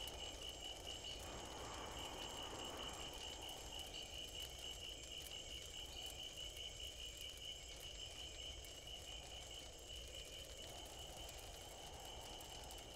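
Faint night ambience of crickets trilling steadily in an even, pulsing chirp, over a low background hiss.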